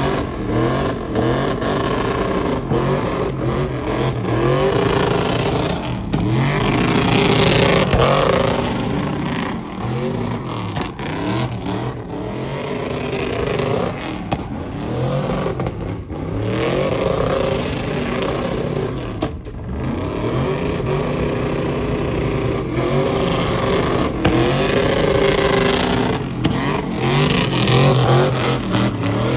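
Truck engines revving over and over, the pitch climbing and falling in repeated surges, the loudest about seven seconds in and again near the end.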